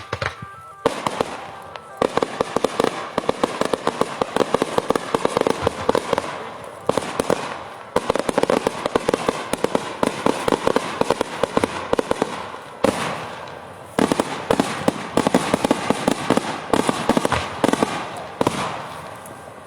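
Daytime fireworks going off in dense, rapid volleys of firecracker bangs, a near-continuous crackle of reports that lets up briefly a few times before starting again.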